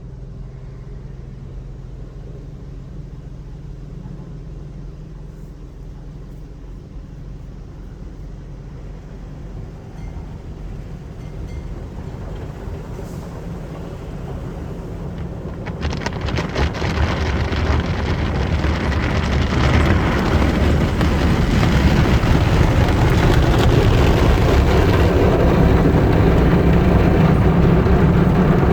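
Automatic car wash running: a steady low hum, then a rushing noise of the wash equipment that builds from about halfway through, with a few clicks, and stays loud to the end.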